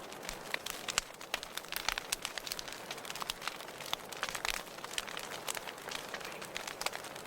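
Wood fire burning in a fireplace, crackling with frequent irregular sharp pops over a steady soft hiss.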